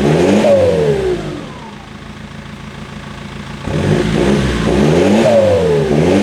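BMW E46 320d turbo diesel revved through its freshly welded straight-pipe exhaust: two throttle blips, the pitch climbing and then falling back, one at the start and a longer one from under halfway through, with the engine idling more quietly between them.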